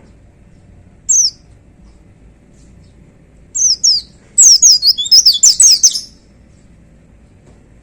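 White-eye (pleci) singing: a single high falling note about a second in, two more a little later, then a fast run of high, falling chirps for about a second and a half.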